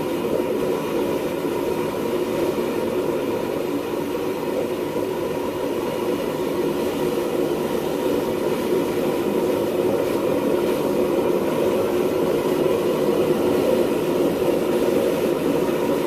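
Propane burners of a homemade gas forge running steadily, a dense rushing noise with a faint steady tone in it, growing a little louder near the end.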